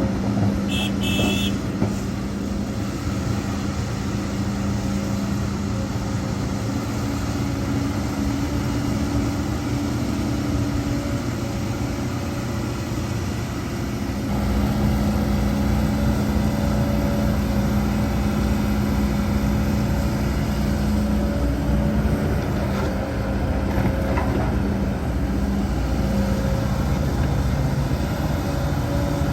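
Heavy diesel earthmoving machinery running steadily: excavator and dump-truck engines working, growing louder about halfway through. A brief high beep sounds about a second in.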